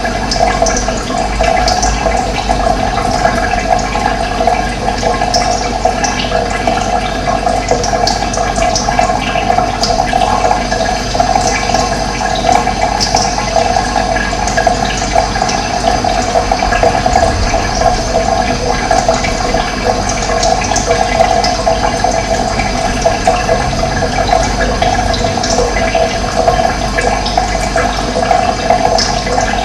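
Running water rushing steadily, with small birds chirping now and then above it.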